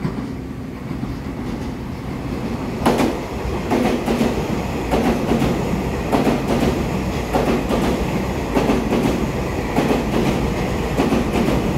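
Twelve-car EMU3000 electric express train running through the station at speed without stopping: a steady rumble of wheels and running gear that builds over the first few seconds, with a regular clickety-clack of the bogies crossing rail joints, about one to two clanks a second.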